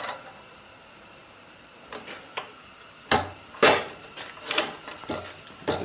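Light clicks and then a run of sharp clinks and knocks as metal parts of a forge blower, its fan, case and washers, are handled and set down. The blower's fan has been rattling against its housing.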